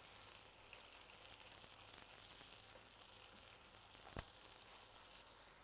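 Faint, steady sizzle of sliced onions, diced tomatoes and pepper frying in oil in a frying pan, with a single light knock about four seconds in.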